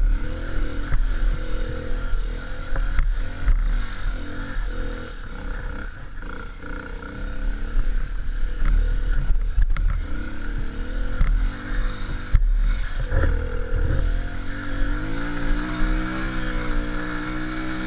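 Vehicle engine running while driving along a rough forest road, with low rumble and scattered knocks from the bumps. Near the end the engine pitch climbs steadily as it accelerates.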